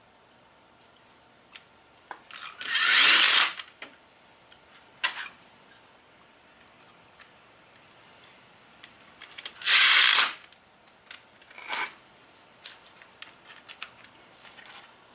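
Power drill-driver spinning, two runs of about a second each, the second with a rising whine, with small clicks and knocks of tools and parts between them.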